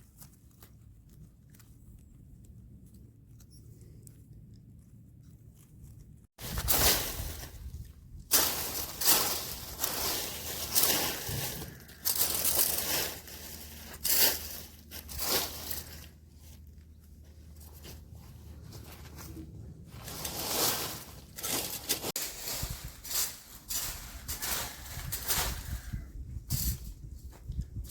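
Irregular rustling and crunching of vegetation, in quick noisy strokes that start abruptly about six seconds in, ease off for a few seconds in the middle and pick up again. A faint low hum comes before them.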